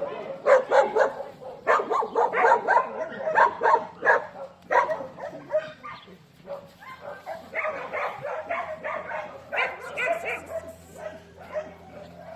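Dogs barking and yipping in quick runs of short barks, with a lull of a second or two midway.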